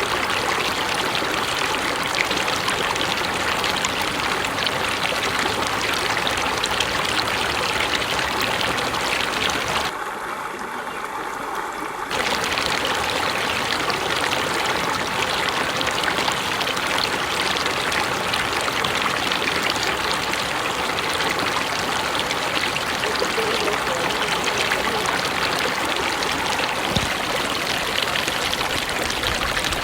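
Mountain river flowing: a steady rush of running water. About a third of the way in it briefly turns quieter and thinner for around two seconds, then returns to full.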